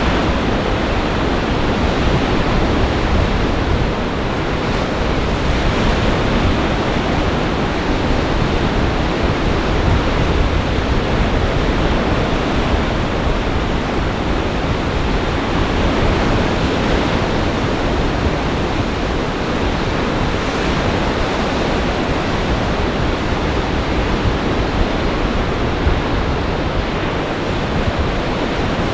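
Storm surf on a large lake breaking heavily under gale-force wind, a loud, steady rush of water with a deep rumble underneath.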